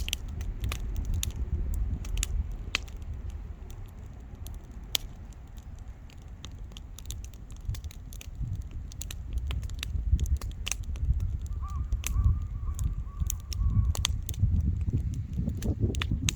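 Wood campfire crackling: frequent sharp pops and snaps over a gusty low rumble. About twelve seconds in, a faint wavering whistle lasts about two seconds.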